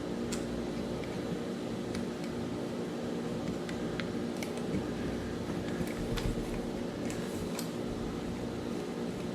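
Scattered light clicks and taps of small spinning-reel parts being handled and fitted during reassembly, over a steady low background hum.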